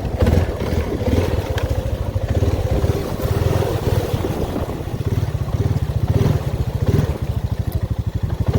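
ATV engine running under way, its throttle easing on and off so the engine note swells and falls a few times.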